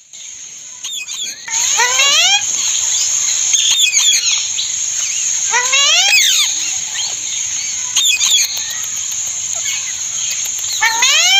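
A group of parrots calling: repeated series of shrill squawks that each rise in pitch, coming in bursts every second or two. A steady high buzz runs beneath them.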